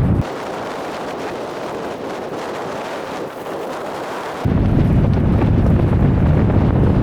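Strong wind buffeting the microphone on an exposed snowy mountainside, a deep rumbling roar with a rushing hiss over it. The low rumble drops away a moment in, leaving only the hiss, then comes back strongly about four and a half seconds in.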